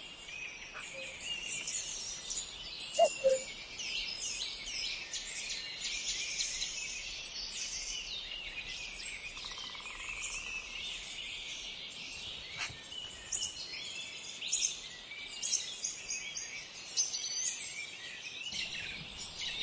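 Many small birds chirping and twittering together in a dense, continuous chorus of short, high calls. A brief, lower-pitched sound about three seconds in is the loudest moment.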